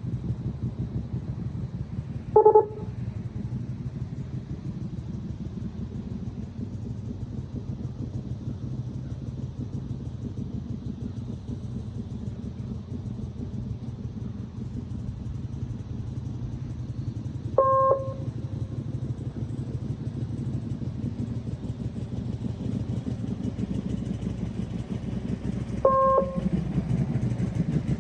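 Motorcycle engine running at low speed with a steady, rapid exhaust pulse, getting louder near the end. Three short electronic beeps cut through it: a few seconds in, past the middle, and near the end.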